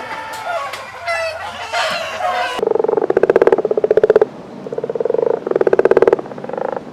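Chickens clucking for the first two and a half seconds, then an abrupt switch to a sheep bleating: long quavering bleats of about a second and a half each, repeated.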